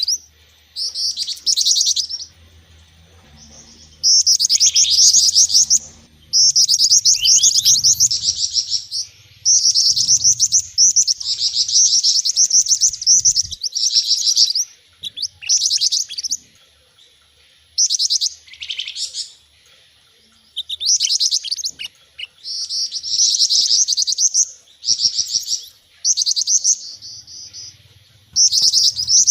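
Bird-lure recording of small songbirds, mixing gelatik batu, jingjing batu and mantenan calls: bursts of rapid, high chirping trills, each a second or two long, repeated with short pauses between them.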